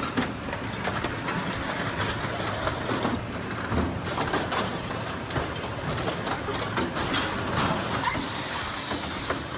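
Heavy vehicle running: a steady noisy rumble with scattered knocks and clatter.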